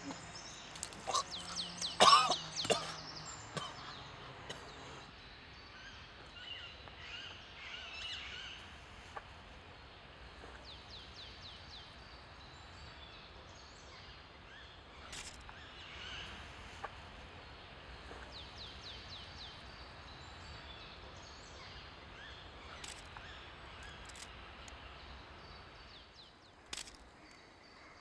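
Woodland ambience: a faint steady hiss with birds singing now and then in short, rapid trills. A brief louder burst of sound comes about two seconds in, and a few sharp clicks come later.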